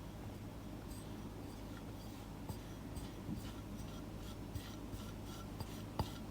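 Faint scratchy rubbing and scattered light taps of kitchen utensils as cake flour is measured out, with a sharper tap about six seconds in, over a low steady hum.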